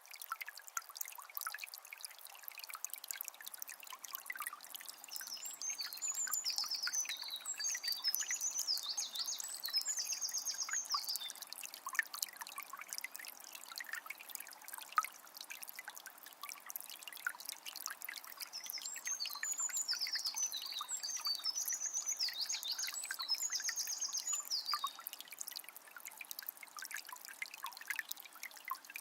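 Water of a small spring trickling steadily, with many small drips and splashes. A songbird sings a long, varied phrase of quick notes and trills twice, about five seconds in and again past the middle.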